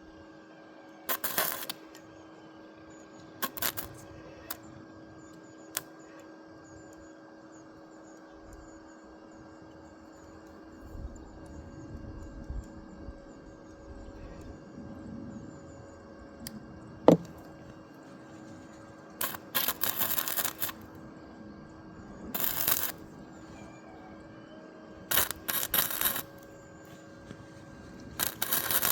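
Bursts of short clattering and rattling from parts being handled, a single sharp knock about halfway through, and a steady hum underneath.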